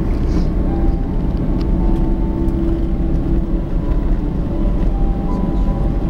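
Airliner cabin noise after landing: a steady low rumble from the jet engines and airframe as the plane rolls on the ground, with a faint engine whine holding a few steady pitches.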